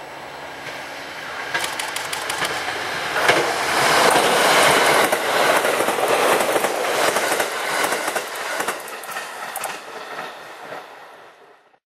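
JR East E531-series electric train passing close by. The sound rises as it approaches, its wheels click rapidly over the rail joints as it goes past, then it fades as it moves away and cuts off suddenly near the end.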